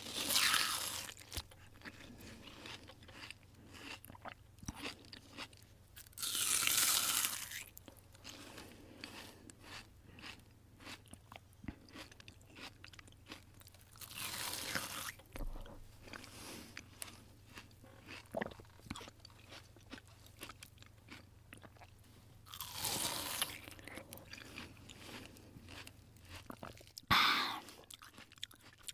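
A person eating a chicken burger: steady small chewing clicks, broken by about five louder crunching bites spread through.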